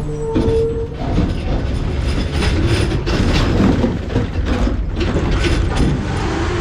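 McNeilus ZR rear-loader garbage truck compacting trash in its hopper: irregular cracking and crunching of bags and rubbish under the packer blade over the steady rumble of the diesel engine and hydraulics. A steady whine stops about a second in.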